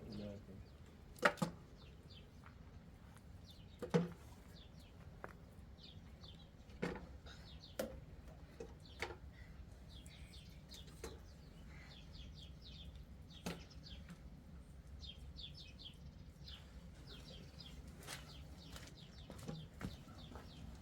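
Small birds chirping faintly in short high clusters, with a dozen or so sharp knocks scattered through.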